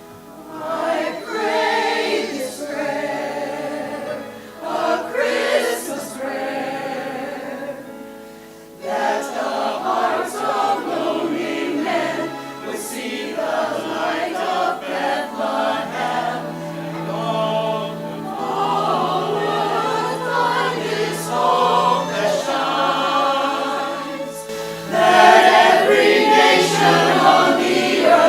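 Church choir singing an anthem in several parts with instrumental accompaniment, swelling louder near the end.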